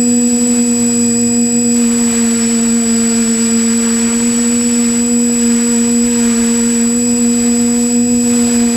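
Quadcopter's electric motors and propellers running steadily, a loud even buzzing hum with a high whine above it, heard from on board the drone. A rush of higher hiss joins in about two seconds in and fades near the end.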